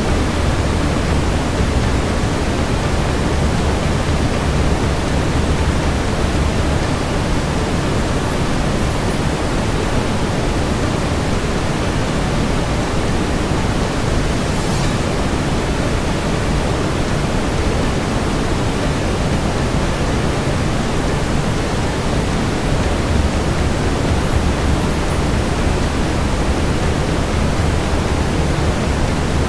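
Steady brown noise: a deep, even hiss heaviest in the low rumble, with a fireplace ambience mixed beneath it. The deepest rumble eases off for a stretch in the middle and then returns.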